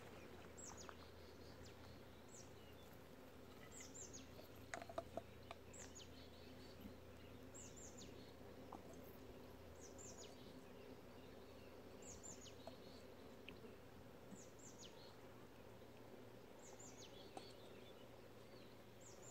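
Faint bird calls: short, high chirps that slide downward, often two or three in quick succession, repeating every second or two.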